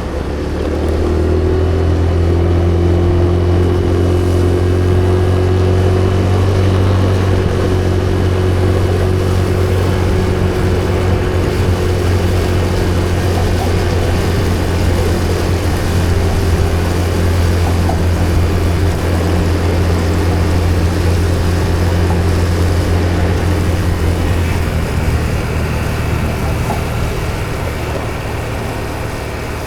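Vehicle engine running at a steady speed with a strong low hum, building over the first couple of seconds and easing off near the end.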